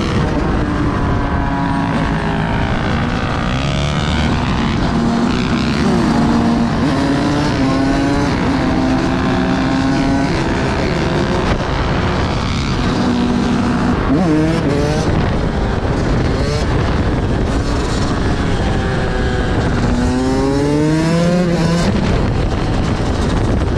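Vehicle engines revving during a ride, their pitch rising and falling again and again as they accelerate and shift, with a sharp climb near the end over steady road and wind noise.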